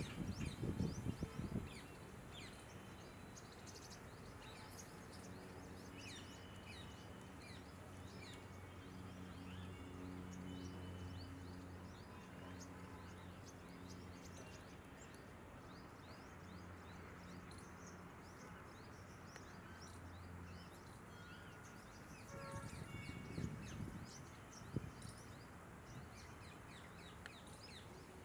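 Many small birds chirping, with a low steady hum through the middle and short low rumbles at the start and again near the three-quarter mark.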